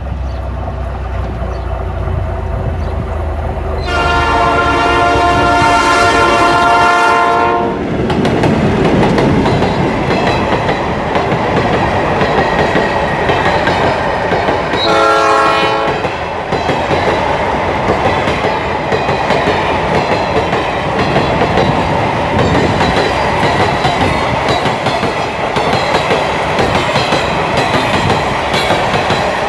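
A diesel freight train passes. The locomotive horn sounds one long blast of about four seconds, then a short blast about ten seconds later. After that the empty coil-carrier wagons roll by, clacking over the rail joints.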